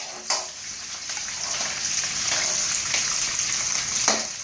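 Chopped vegetables sizzling steadily as they are stir-fried in hot oil in a pan, with a sharp knock about a third of a second in and another near the end.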